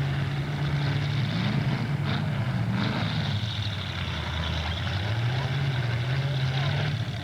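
Demolition derby cars' engines running and revving, their pitch rising and falling. There are a couple of sharp knocks about two and three seconds in.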